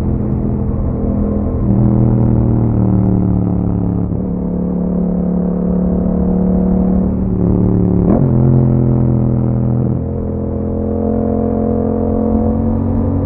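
Yamaha MT-07's parallel-twin engine running through an Akrapovic exhaust while riding. Its pitch climbs and drops in steps several times, with a quick rise and fall a little past the middle.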